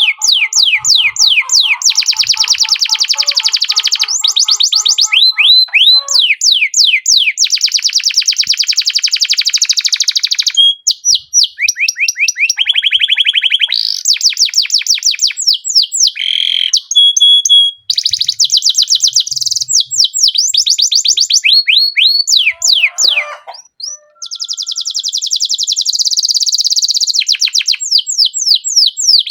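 Domestic canary singing a long, loud song of rapid trills and rolls. It runs almost without pause, mixing fast runs of sweeping high notes with buzzy rolls, and breaks off only briefly a few times.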